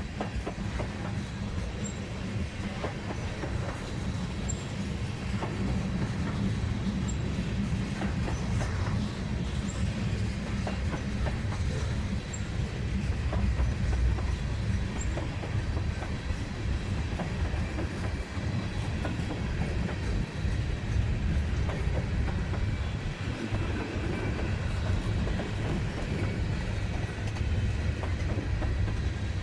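Railcars rolling past on the track: a steady rumble of wheels, with repeated clicks and clacks as the wheels cross the rail joints.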